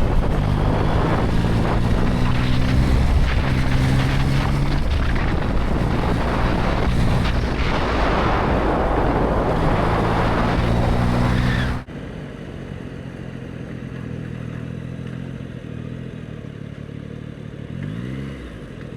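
Motorcycle engine running at road speed under heavy wind rush, its pitch stepping up and down. About twelve seconds in, the sound drops suddenly to a quieter, steadier engine note, with a brief rise and fall in engine pitch near the end.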